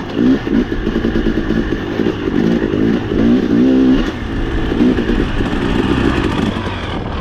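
Dirt bike engine revving up and down repeatedly, its pitch rising and falling every second or so.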